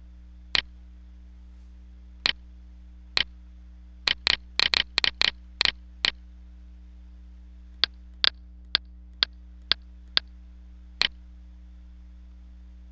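Sharp clicks of a computer mouse or keyboard, about twenty at irregular intervals, with a quick run of clicks between about four and six seconds in, over a steady electrical hum.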